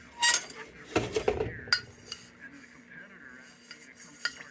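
Metal parts of a Dietz Blizzard lantern clinking and clattering as it is handled and taken apart: a few sharp knocks early, then a quieter stretch with one more clink near the end.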